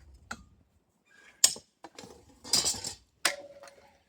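Metal shop hardware being taken off the work and set down: a few separate knocks and clinks, one sharp and loud about a second and a half in. The last clank, a little after three seconds, leaves a short ringing tone.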